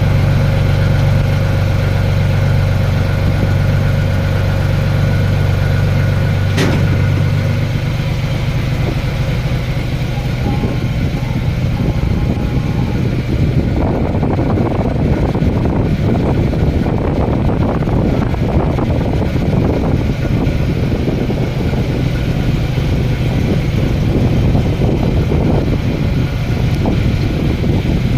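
Machinery running with a steady low hum, a sharp click about seven seconds in, after which the hum changes; from about halfway it turns rougher and noisier.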